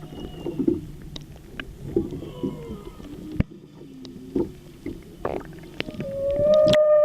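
Humpback whale song: a run of low moans and higher whistle-like tones, with scattered clicks and knocks. About six seconds in, a loud, long moan begins.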